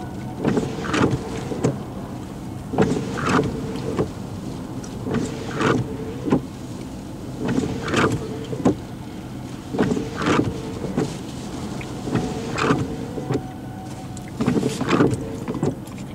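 Vehicle windshield wipers running at a steady pace. Each sweep brings a short motor whine with knocks and squeaks, repeating about every two and a half seconds.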